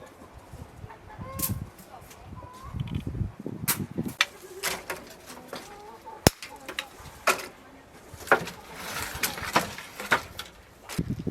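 Chickens clucking, with scattered sharp clicks and knocks, the sharpest one about six seconds in.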